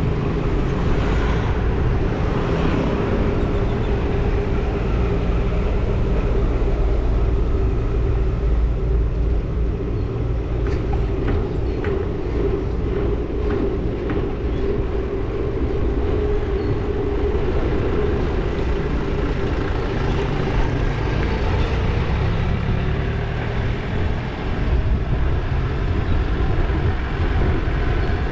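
Wind rumbling on the microphone over steady road and traffic noise while riding, with a constant hum throughout and a few light rattles or clicks about halfway through.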